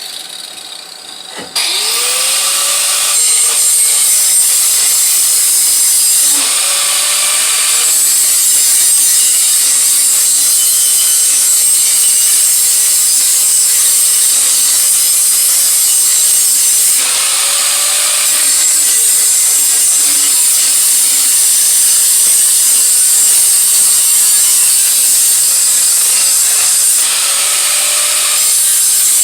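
Handheld electric grinder starting up about a second in, then running continuously as it works metal. Its motor pitch sags and recovers a few times as it is pressed into the work and eased off.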